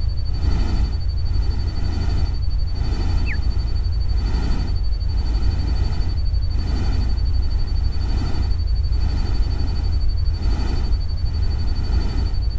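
Artificial rain-and-forest ambience: a deep steady rumble under a rushing noise that swells and fades a little more than once a second, with a steady thin high tone like a cricket. One short falling bird-like chirp sounds about three seconds in.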